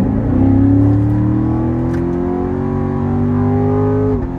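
Chevrolet Corvette Grand Sport's 6.2-litre V8 at full throttle, with the automatic gearbox shifting on its own. The engine note drops with an upshift just into the sound, climbs slowly and steadily as the car pulls through the next gear, then drops again near the end.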